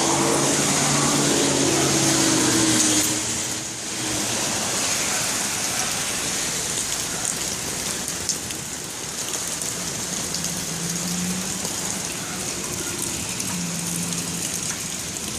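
Steady rain falling on surfaces, an even hiss. A low motor hum runs beneath it and stops about three and a half seconds in.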